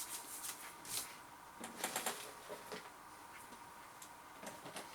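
Chewing of a thin, crisp cracker, a rapid run of crunches that dies away about a second in, followed by a few scattered light clicks.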